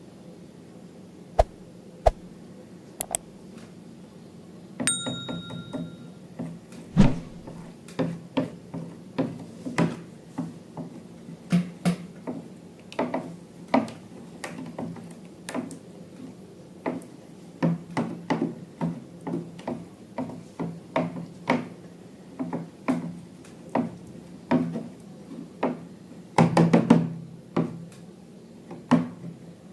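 Hands working slime: a run of short wet knocks and squishy pops, roughly two a second, with a few sharp clicks at the start and a brief high ding about five seconds in.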